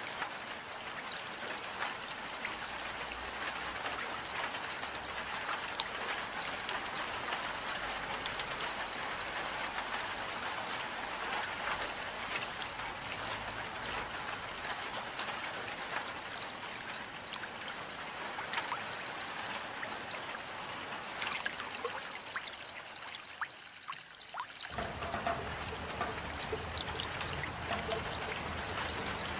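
Steady rain falling, an even hiss with many small drop ticks. About 24 seconds in it dips briefly, then carries on with a deeper low rumble added underneath.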